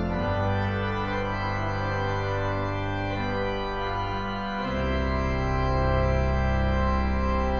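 Organ music: full sustained chords over a deep pedal bass, moving to a new chord with a lower bass note a little past halfway.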